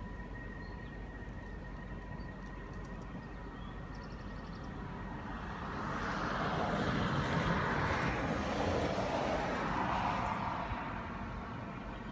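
A car passing on a nearby highway: tyre and engine noise swells about halfway through, holds for a few seconds and fades away near the end.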